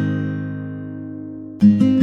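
Background music on acoustic guitar: a strummed chord rings out and fades, and a new strum starts near the end.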